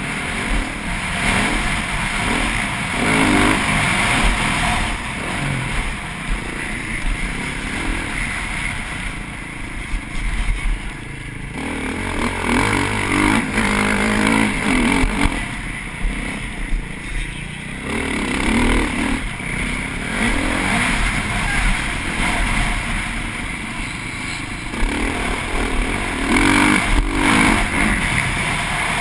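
TM MX450Fi motocross bike's single-cylinder four-stroke engine at race pace, revving up hard and dropping off again and again as it accelerates and brakes through the track.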